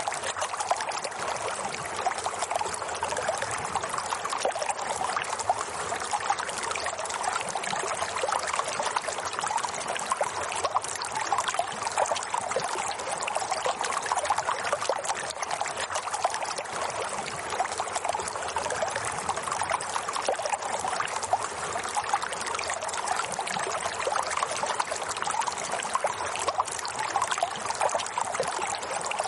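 Running water trickling and splashing steadily, like a small stream, with no pauses or changes.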